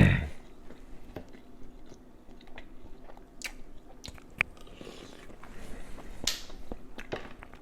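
Close-up chewing and mouth smacks with scattered small clicks, opening with one loud, low thump.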